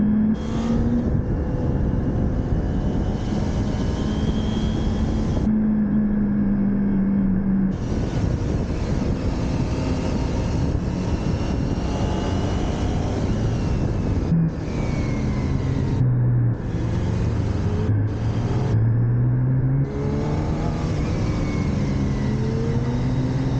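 Motorcycle engine running under a rider on a circuit, its pitch rising and falling as the throttle opens and closes and the revs change through the corners, over a steady rushing noise.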